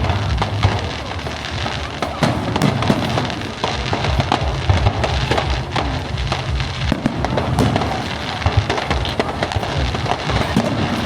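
Fireworks display: aerial shells bursting in a dense, irregular run of bangs and crackles, with music playing underneath.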